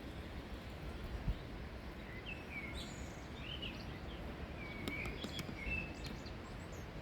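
Steady outdoor ambience with a small bird chirping a run of short, quick calls from about two seconds in until shortly before the end, and a few faint clicks in the middle.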